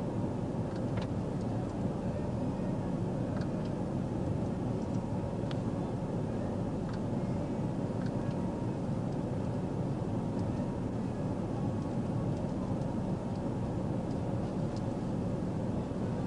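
Steady low rumble and hiss of a vehicle running, with a few faint clicks.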